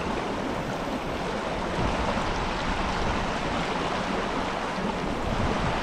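Running stream water, a steady rushing wash with no breaks.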